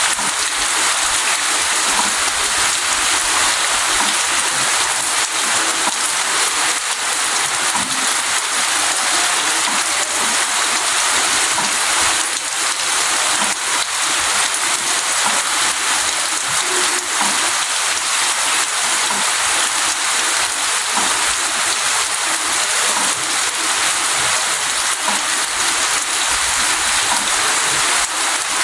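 Steady rain falling, an even hiss with scattered drips.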